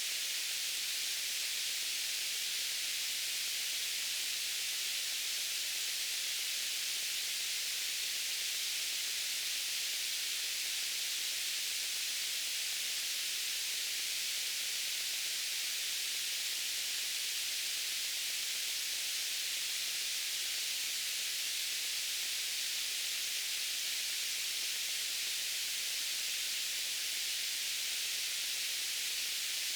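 Steady white-noise hiss, even and unchanging, weighted toward the high frequencies.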